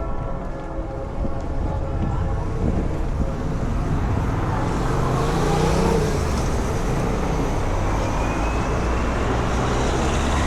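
Street traffic: a motor vehicle's engine and tyres growing louder from about four seconds in as it draws near, over a steady traffic rumble.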